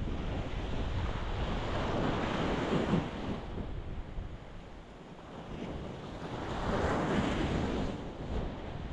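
Ocean waves breaking against a rocky shore: two waves wash in, one cresting about three seconds in and the next about seven seconds in, with a lull between them.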